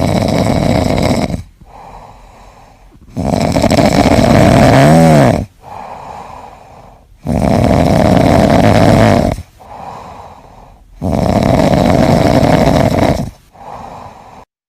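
A sleeping pet snoring loudly in a slow rhythm: four long, loud snoring breaths of about two seconds each, with quieter breaths between them.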